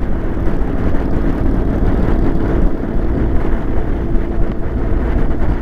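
BMW R 1200 GS motorcycle's boxer-twin engine running steadily at road speed, mixed with a constant rush of wind and road noise on the microphone.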